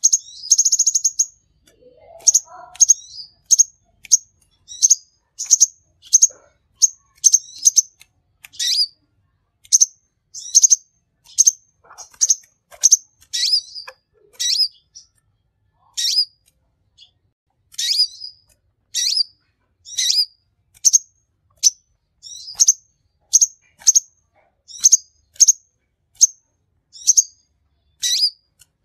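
Sunbird (kolibri konin) singing a long run of short, sharp, high chirps, about one to two a second, opening with a brief buzzy trill.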